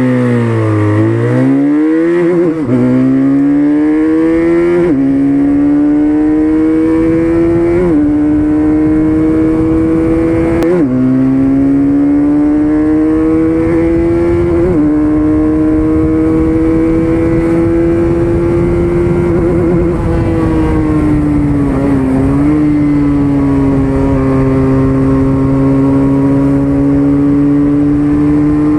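QJ Motor SRK400's parallel-twin engine through its exhaust, revved up and down twice, then pulling through the gears. The note climbs and drops sharply at each of four upshifts, eases off, then holds a steady cruise for the last several seconds.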